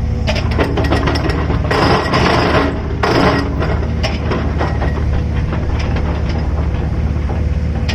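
Excavator's diesel engine running at a steady pitch under work, with scattered clicks and knocks and two short rushes of noise about two and three seconds in.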